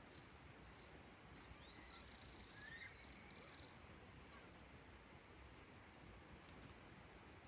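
Faint countryside evening ambience: a steady low hiss with a few brief bird chirps between about one and four seconds in.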